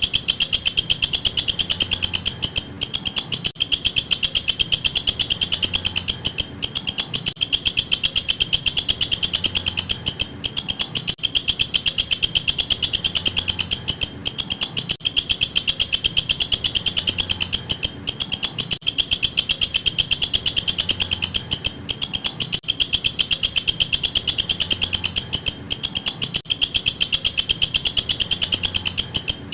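Walang kecek bush cricket calling: a loud, high-pitched, rapidly pulsing chirr that runs on steadily, broken by very short pauses every few seconds.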